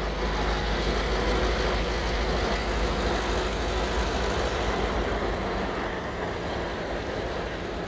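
Via Rail Siemens Venture passenger trainset passing, a steady rush of wheels on rail that is loudest for the first few seconds and then eases off, over a low steady rumble.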